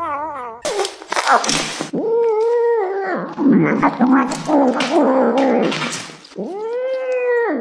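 Cat making wavering, whining growl-meows while eating, with noisy bursts between the calls and one long rising-then-falling call near the end.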